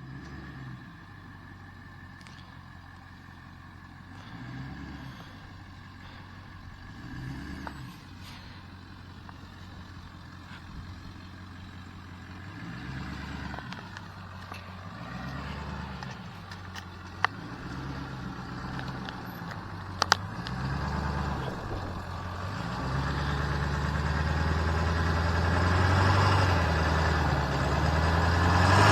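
Pickup truck engine running at low speed over a rough dirt trail, its note stepping up and down and getting louder over the last several seconds. Two sharp knocks come about two-thirds of the way through.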